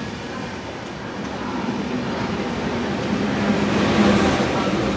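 A train running past, a continuous rumble of wheels on rail that grows louder toward its peak about four seconds in.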